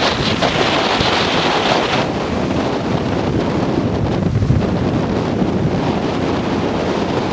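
Strong tropical-storm wind buffeting the microphone, a continuous rush of noise with gusts rising and falling.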